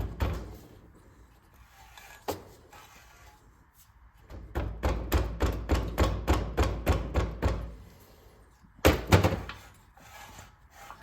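Rapid metal-on-metal tapping with a brass tool, coming in bursts and at about four taps a second in the longest run, used to work loose a seized part of a small engine soaked in penetrating oil.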